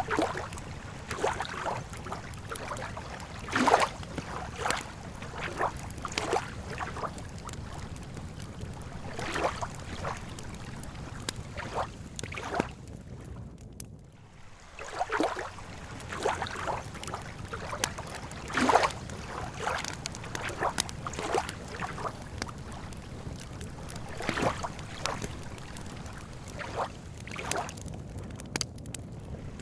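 Campfire wood crackling and popping irregularly, with two louder pops, one a few seconds in and one just past the middle, over a low steady rumble.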